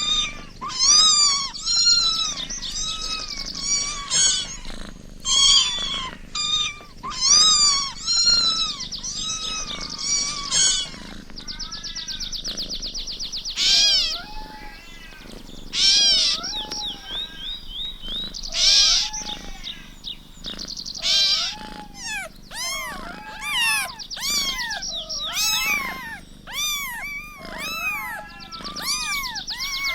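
Kittens meowing over and over: high-pitched meows, each rising and falling in pitch, following one another in quick succession.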